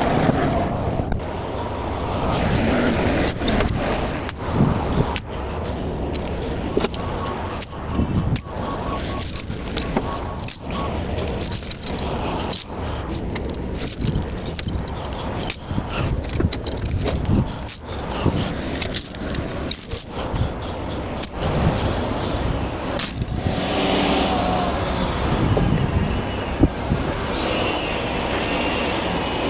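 Repeated sharp metal clanks and rattles over the steady low running of an idling diesel truck, as a lowboy trailer is broken down and its tie-down chains are handled. Near the end a wavering pitched sound comes in.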